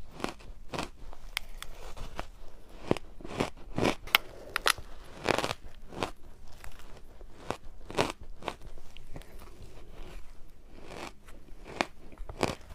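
Shaved ice topped with matcha being bitten and chewed: a string of short, irregular crunches.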